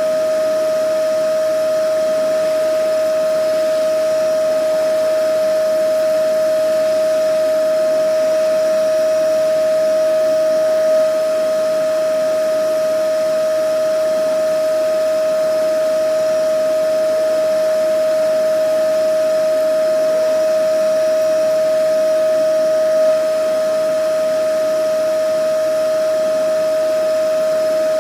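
Vacuum cleaner running continuously: a steady high motor whine over a rushing hiss of air, with slight swells in loudness about every twelve seconds.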